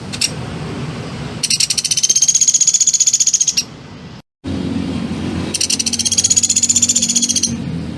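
A small songbird's rapid, high trill, sung twice for about two seconds each, rising slightly in pitch, with a brief dead gap between as the recording is cut.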